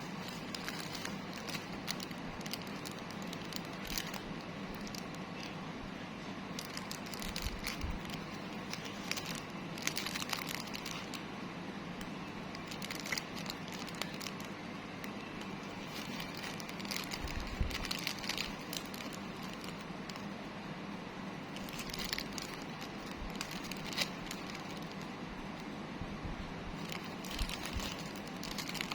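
Plastic packaging crinkling and rustling in irregular handling bursts, with scattered small clicks and crackles over a steady background hiss.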